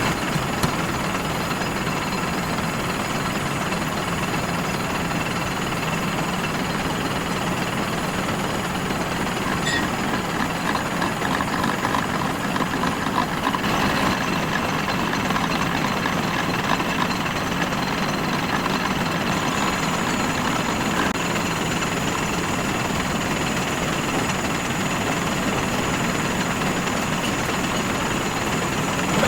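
Steady mechanical noise of metalworking machinery running without a break.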